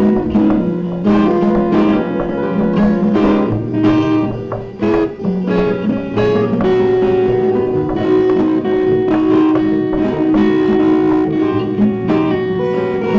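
Instrumental music led by plucked guitar, a melody of short notes over lower bass notes.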